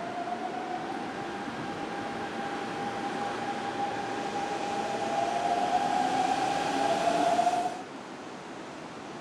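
Hanshin electric train running at a station, its motor whine a steady tone that grows louder, joined by a second close tone, then cut off suddenly about eight seconds in.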